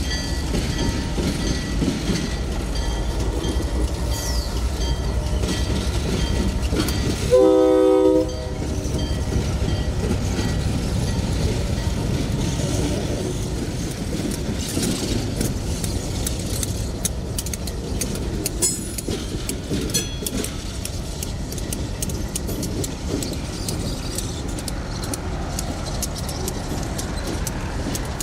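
Diesel freight train running by with a steady low engine rumble, and a short blast of the locomotive's horn about seven seconds in. Later, wheels click over rail joints.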